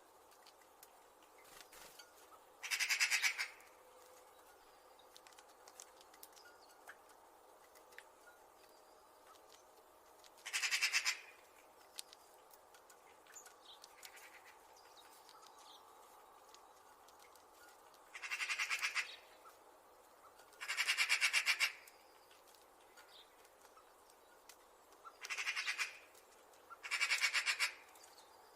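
Magpies chattering: six separate bursts of rapid chatter calls, each about a second long and spaced several seconds apart, over a faint steady background.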